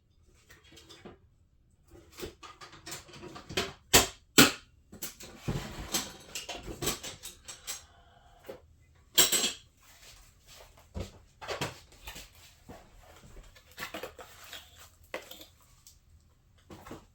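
Hard objects being handled and moved about: irregular knocks, clatter and rustling, with the sharpest knocks about four seconds in and again near nine seconds.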